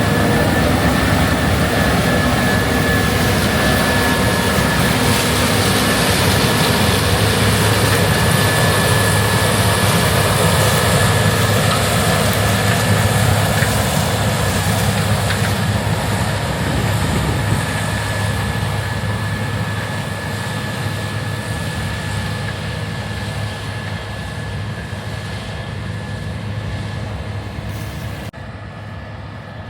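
Heavy harvest machinery running steadily, with a deep engine hum and a thin high whine. It gradually fades over the second half and drops off abruptly near the end.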